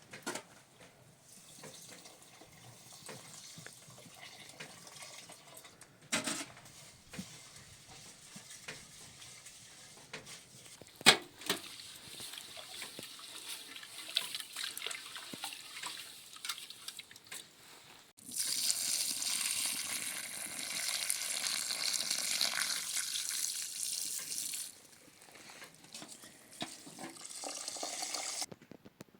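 Water running and splashing, with a louder steady stretch of running water for about six seconds past the middle, scattered small clicks of handling, and one sharp knock about eleven seconds in.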